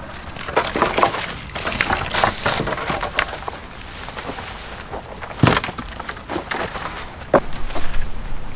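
Dry wood crackling and snapping in irregular short cracks, with a couple of sharper snaps about five and a half and seven and a half seconds in, as when dry twigs and branches are broken or trodden on.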